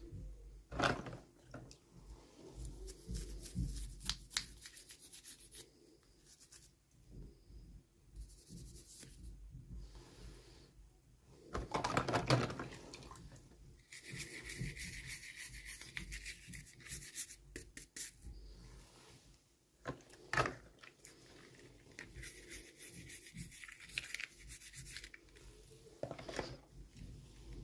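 Hands handling and opening small toy packaging: irregular rubbing and rustling with scattered clicks. The loudest rustle comes about twelve seconds in, followed by a few seconds of steady high scraping.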